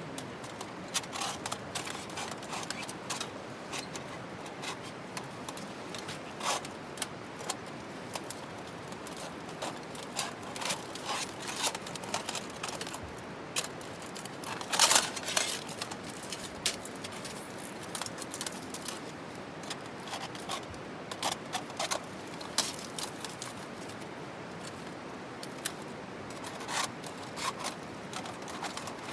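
Scattered clicks, snaps and short scrapes of hands working with kindling and fire-lighting gear, over a steady low hiss, with one longer, louder scrape about halfway through.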